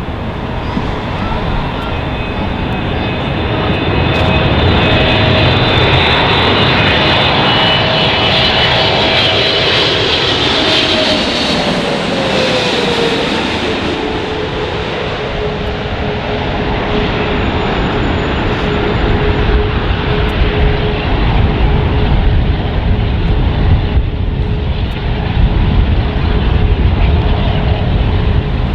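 Boeing 777-300ER's twin GE90-115B turbofan engines on landing approach: a high whine and rumble, with the engine tone dropping in pitch about halfway through as the airliner passes, then a steady rumble that swells near the end.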